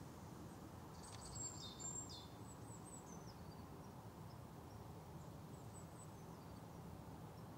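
Quiet outdoor ambience: a steady low background noise, with a small bird chirping and twittering for about two seconds starting a second in, and a few fainter chirps later.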